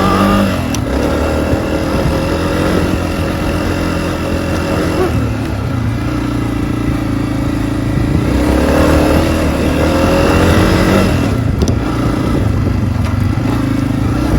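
Honda CRF250F dirt bike's air-cooled single-cylinder four-stroke engine running under way, its note rising and falling with the throttle, dropping about five seconds in and climbing again a few seconds later.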